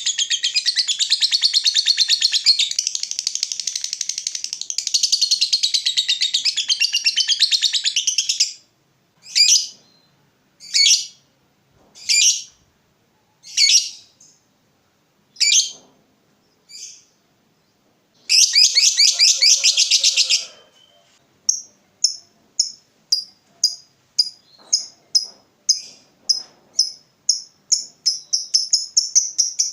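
Lovebird giving a long, rapid, high-pitched chattering trill, the "ngekek" call, for about eight seconds. Then come single sharp calls about a second and a half apart and a short chattering burst. Near the end there is a run of quick ticking calls that speed up.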